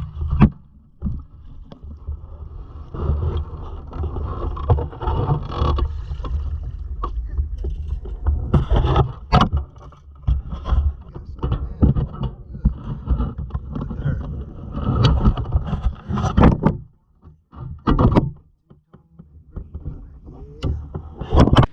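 Handling noise in a small fishing boat: repeated knocks and clatter of gear and a fish being handled against the boat, over a low rumble, with a short quiet spell about two-thirds of the way through.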